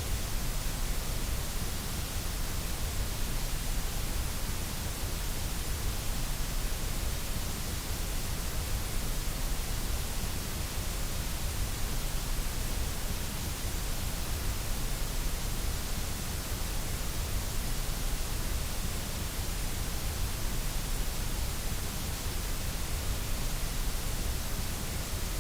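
Steady synthetic white noise: an even, unchanging hiss.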